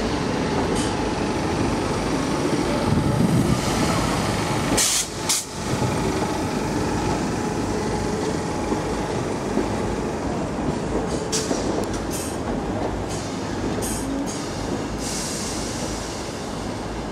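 Northern passenger trains moving along the station platforms: a steady rumble of wheels on rails, with clicks as the wheels cross track joints. The later train is a Class 319 electric multiple unit.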